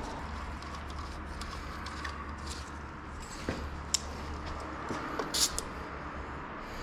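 Workshop background noise: a steady low hum with a few sharp clicks and taps, the loudest about halfway through and another near the end.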